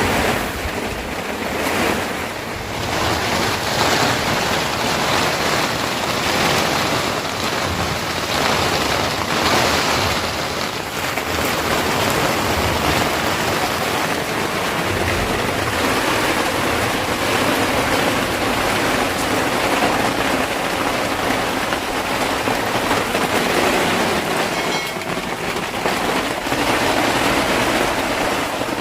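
Storm weather: a loud, steady rush of wind and driving precipitation that swells and eases slowly.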